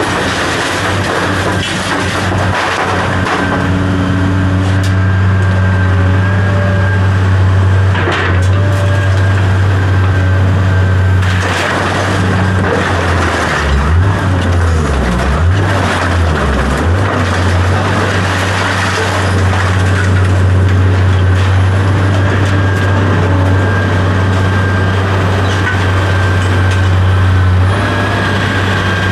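A large engine running steadily with a deep, even hum. Between about 14 and 17 seconds in, its pitch dips and rises a few times, as if it is briefly loaded or revved, then it settles back to the steady run.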